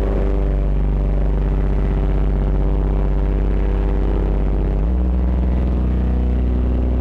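Distorted ambient drone loop from a Eurorack modular synthesizer, a DPO oscillator run through Lyra8-FX distortion and Mimeophon delay: a dense, steady low bass tone with many overtones above it. The bass note steps to a new pitch about five seconds in.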